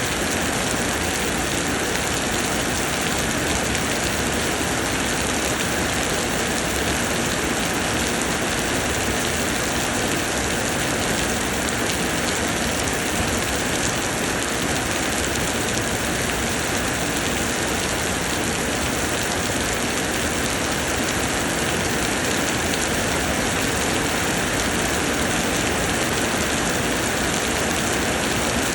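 Summer rain pouring down steadily, an even, unbroken hiss of countless drops.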